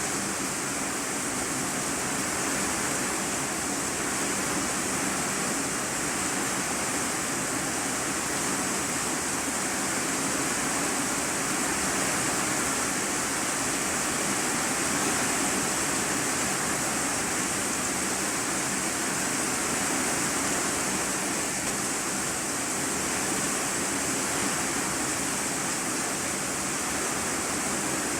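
Heavy rain drumming on a corrugated iron sheet roof, heard from inside the room beneath: a dense, steady hiss of countless drops with no let-up.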